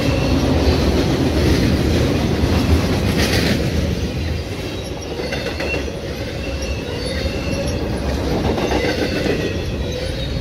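Intermodal freight train's well cars rolling past close by: steady loud rumble of steel wheels on the rails, with brief high wheel squeals now and then.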